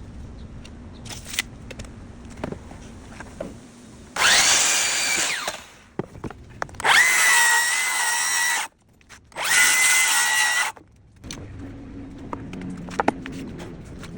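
Power drill run in three bursts: the motor whine climbs in pitch, holds steady, then cuts off. Light clicks and knocks fall between the bursts.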